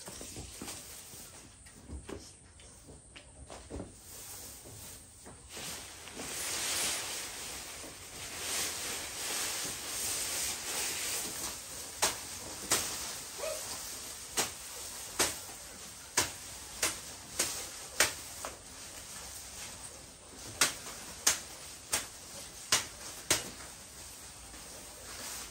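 Rustling, then a run of sharp knocks, about one or two a second, from roughly halfway through.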